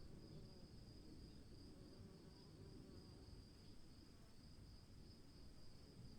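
Crickets trilling, a faint, steady, continuous high-pitched chirring with no breaks, over a faint low rumble.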